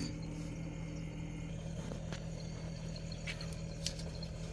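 Samsung Zipel SRT686FVIS refrigerator's machine compartment running with a steady hum and no rattle, with newspaper wedged between the condenser and the floor to stop its mounting from vibrating. A few faint ticks.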